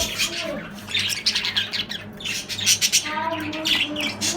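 A flock of birds chirping rapidly and continuously, with a lower, drawn-out call about three seconds in.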